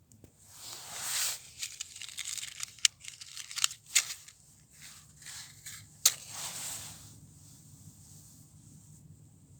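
Thin dry spruce twigs crackling and rustling as a small kindling fire catches in them, with a few sharp snaps. The sound fades out after about seven seconds.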